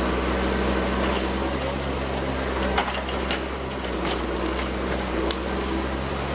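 A heavy machine's engine running steadily at a constant pitch, with a few sharp knocks about three and five seconds in.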